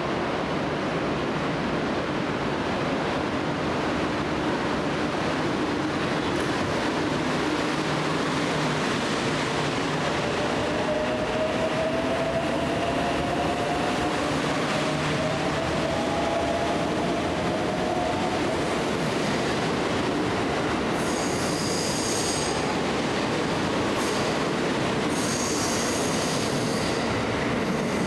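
Train running on the rails, a steady rumble of wheels and running gear with a faint rising whine in the middle. High-pitched wheel squeal comes in twice in the second half.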